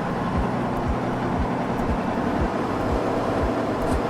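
Khlong Saen Saep canal boat's engine running loud and steady while under way, heard on board, with regular low thumps about three times a second.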